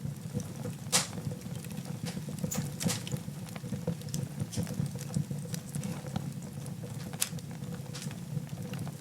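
Wood fire burning in a fireplace: irregular crackles and sharp pops over a steady low rumble of the flames, with the loudest pop about a second in.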